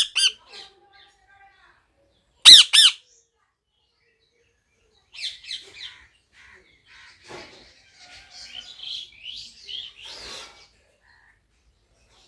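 Pet parrot squawking loudly twice, once right at the start and again about two and a half seconds in, then chattering more softly for several seconds.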